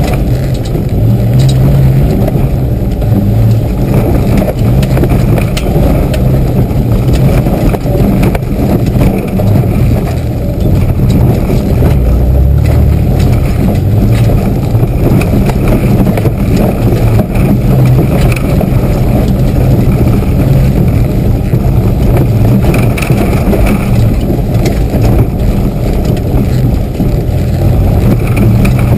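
A Mitsubishi 4x4's engine running hard, heard from inside the cab, its note rising and falling as the throttle is worked over rough ground. Short knocks and rattles from the body and suspension run through it.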